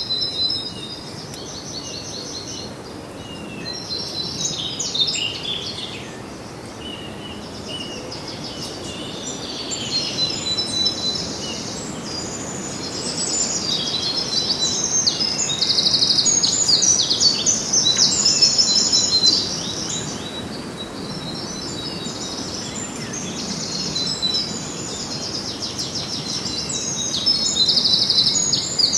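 Several songbirds singing and chirping together in rapid trills and twitters, over a steady background rush. The birdsong is loudest about halfway through and again near the end.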